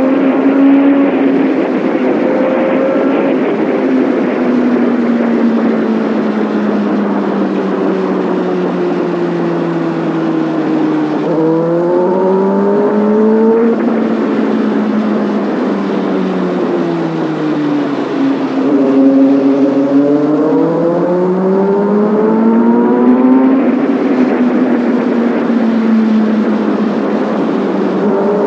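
Kawasaki Ninja ZX-6R inline-four engine and exhaust heard from the rider's seat while riding. The engine note sinks slowly as the revs drop, then climbs again under throttle about eleven seconds in and once more about eighteen seconds in.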